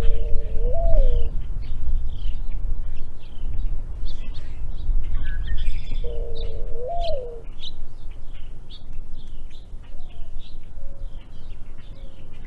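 Mourning dove singing: a low coo that swells up in pitch and falls back, given twice about six seconds apart, the second time followed by several softer, short coos. Smaller birds chirp higher up throughout.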